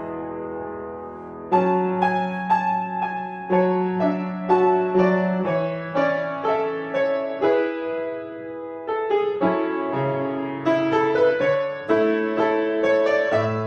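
Solo piano playing a slow, melodic passage. Single notes and chords are struck and left to ring and fade. A held chord dies away at the start, new notes come in about a second and a half in, and there is a brief softer stretch about two thirds of the way through.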